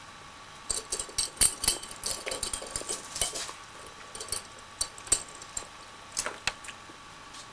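A run of sharp, irregular clicks and clatters of small hard objects being handled, dense for about three seconds, then sparser and stopping near the end. A faint steady high hum lies underneath.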